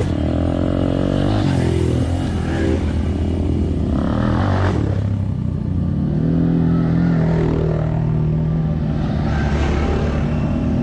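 Off-road motorbike and quad engines running and revving, the engine note rising and falling.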